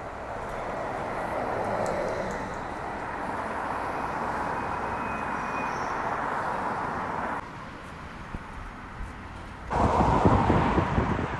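Outdoor city street ambience: a steady rush of passing traffic. It drops away abruptly about seven seconds in, then returns louder with a rough low rumble near the end.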